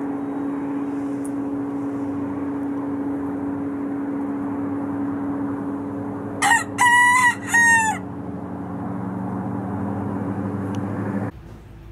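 A feral rooster crows once, about six and a half seconds in: one crow of about a second and a half, broken into three parts, the loudest sound here. Under it runs a steady mechanical drone with a held hum, which cuts off suddenly near the end.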